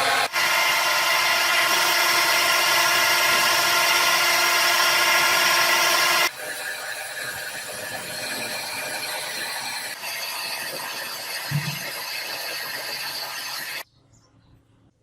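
Power tool working on steel, a loud steady whine. It cuts off abruptly about six seconds in to a quieter steady machine noise, which stops a little before the end.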